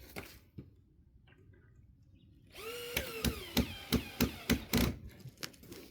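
Power drill driving a screw into pallet wood. About halfway in the motor starts with a whine that sags in pitch under load, then gives a run of sharp clacks for about two seconds before stopping.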